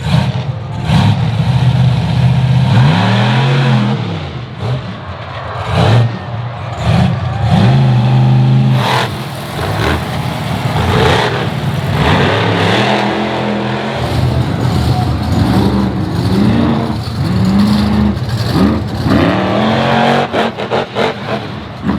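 Monster truck engines revving loudly, the pitch rising and falling again and again in repeated throttle blips.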